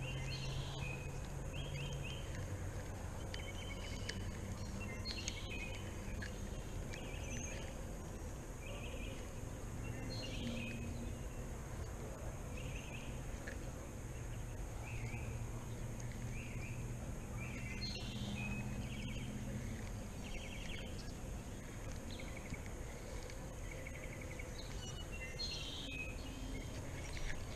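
Outdoor ambience: birds chirping in short, repeated trilled notes, dozens of times, over a steady background hiss and a low hum that comes and goes.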